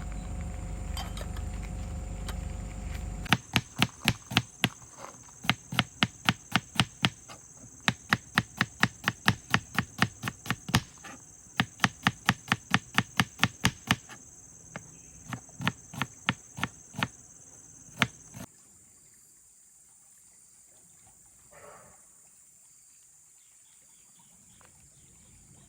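Rapid runs of sharp knocks, about three a second with short pauses between runs, over a steady high insect drone; the knocking and the drone cut off suddenly about eighteen seconds in.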